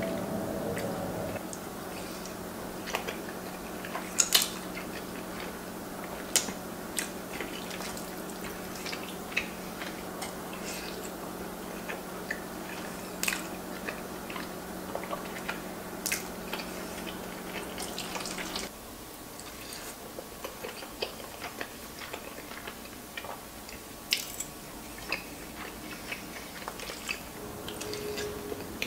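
Close-miked chewing and wet mouth sounds of someone eating soft, creamy fettuccine alfredo, with short sharp smacks and clicks scattered throughout. A steady low hum underneath stops about two-thirds of the way through.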